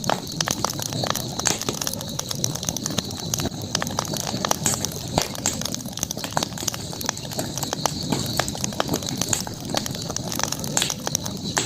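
Campfire burning, wood crackling with many irregular snaps and pops over a steady hiss, with a steady high-pitched hum behind it.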